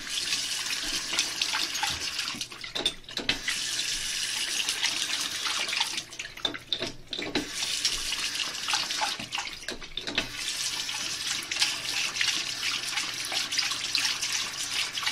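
Bathroom sink faucet running, water splashing into the basin and off a dog's head held under the spout.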